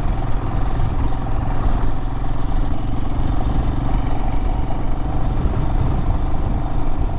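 Adventure motorcycle engine running steadily while the bike is ridden along a dirt road.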